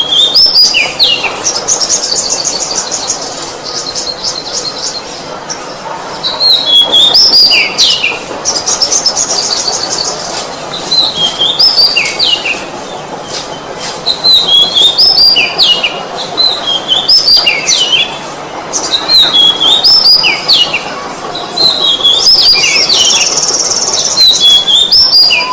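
Oriental magpie-robin (kacer) singing: phrases of clear whistled notes that jump and slide up and down, some broken by fast rattling trills, repeated every few seconds.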